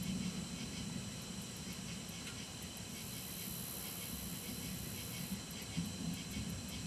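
Thunderstorm ambience: a steady hiss over a low, uneven rumble, with faint ticking high up. There is no sharp thunder clap.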